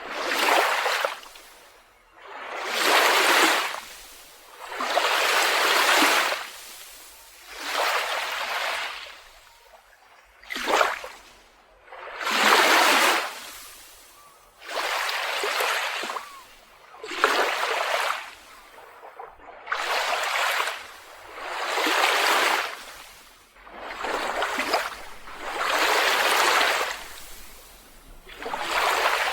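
Small waves breaking and washing up a beach one after another, a swell of surf about every two seconds.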